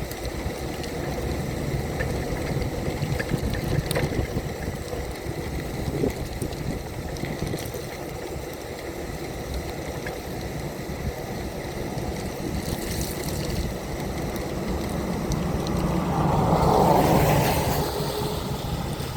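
Steady rumble of a wheelchair rolling along a wet street, with road noise, and a few faint clicks. About three-quarters of the way through a louder swell rises and fades again.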